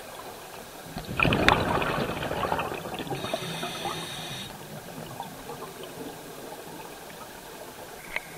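A sudden rush of water and bubbles about a second in, crackling and fading over a few seconds, over a steady watery hiss.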